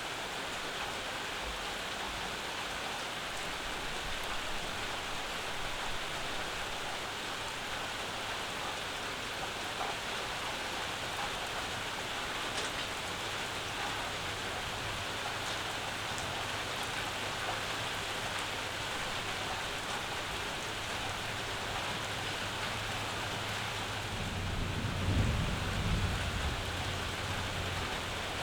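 Steady summer rain falling on and around a house porch, with a low rumble of distant thunder swelling near the end.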